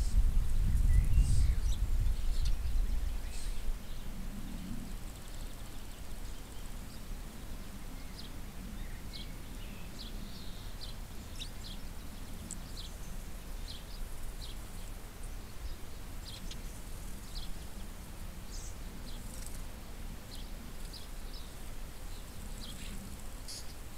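Bird chirps, short high notes scattered throughout, over a steady low hiss, with a low rumble in the first few seconds.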